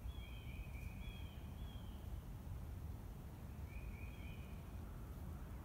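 A bird calling in short, slightly falling notes: a run of them in the first two seconds and another short run at about four seconds, over a steady low background rumble.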